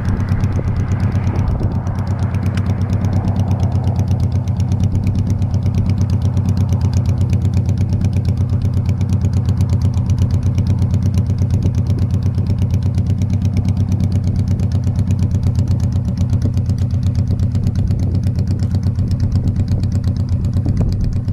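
Honda Shadow Spirit 1100's V-twin engine running at a steady pace with an even, pulsing note. A rush of wind noise fades out in the first couple of seconds.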